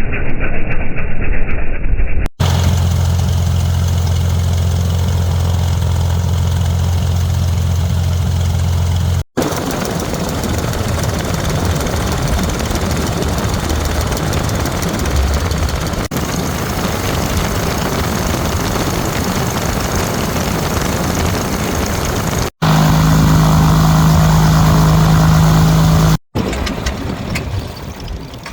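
Cessna 206's six-cylinder piston engine and propeller running on the ground during a brief engine run for an alternator charging check. It holds a steady hum, moves to a higher steady pitch for a few seconds after about 23 seconds, and the sound fades near the end.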